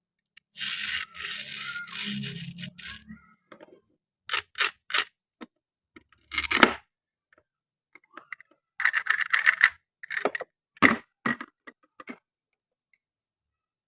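Plastic and wooden toy food pieces being handled: a rattling scrape lasting about two and a half seconds, then a series of separate taps and clicks as pieces are set down and knocked together.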